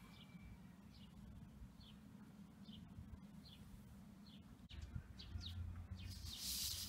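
Faint bird chirping: short high chirps repeating about once a second. Near the end a louder rubbing, rustling noise comes in.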